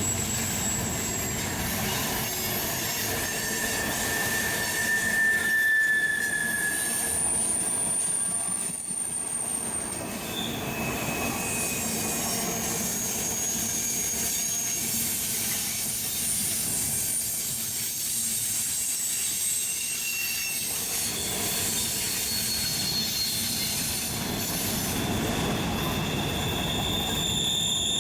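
Train rolling past with its wheels squealing against the rails: a series of thin, high-pitched squeals that start and stop at shifting pitches over a steady rolling rumble.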